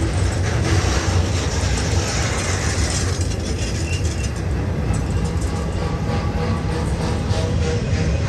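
BNSF freight train running past on the Cajon Pass grade, a steady rumble of locomotives and rolling cars with a light clicking of wheels over the rails.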